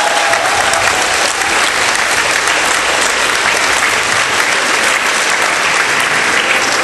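Audience applauding, a steady dense clapping that keeps up throughout.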